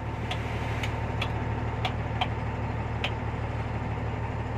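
Tata 12-wheeler truck's diesel engine idling with a steady low hum, with a few short sharp clicks at irregular intervals over it.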